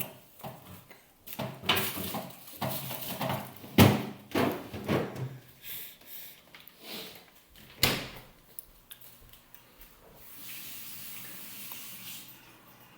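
Irregular knocks and clatter of tableware at a baby's meal, with a louder knock about four seconds in and another near eight seconds, then a steady hiss for about two seconds.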